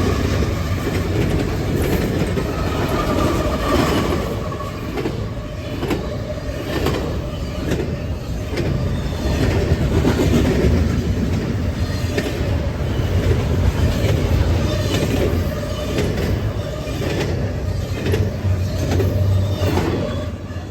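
Norfolk Southern intermodal freight train rolling past: a steady low rumble with regular clacks as the wheels cross rail joints. The tail of the horn fades out at the very start.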